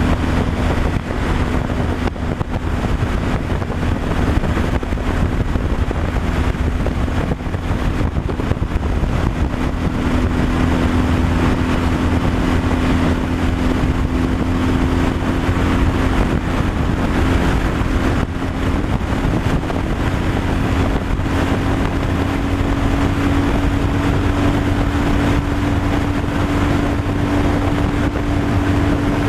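Truck engine running steadily under way, with road and wind noise; the engine's hum climbs slowly in pitch through the second half.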